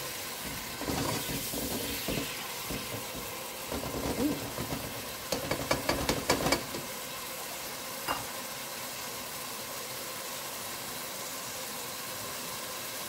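Onion frying in hot palm oil in a pot, a steady sizzle, with stirring and a run of sharp knocks about five to six and a half seconds in.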